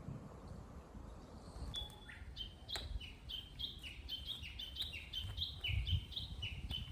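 A songbird singing: starting about two seconds in, a rapid string of short, repeated downslurred whistled notes, over a steady low rumble.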